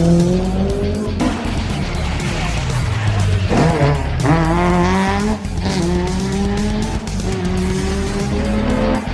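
Rally car engine accelerating hard through the gears, its pitch climbing and then falling back at each gear change, several times over.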